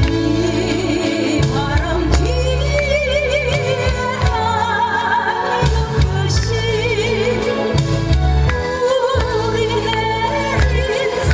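A woman singing a slow ballad with heavy vibrato over instrumental accompaniment with bass and a steady beat.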